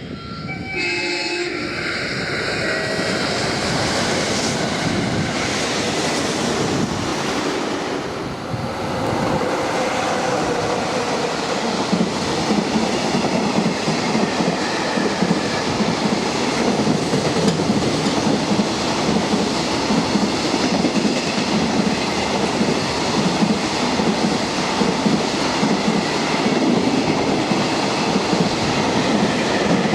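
373 series electric multiple unit passing through the station. About nine seconds in it gives way to a long container freight train hauled by an EF66 electric locomotive, its wagons' wheels clattering steadily over the rail joints.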